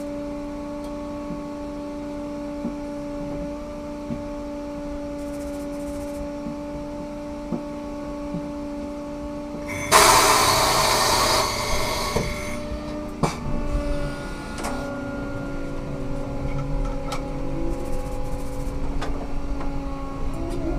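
Ikarus 280T trolleybus with a steady electrical hum of several fixed tones. About ten seconds in, a loud hiss of released compressed air lasts about two seconds, followed by a few clicks.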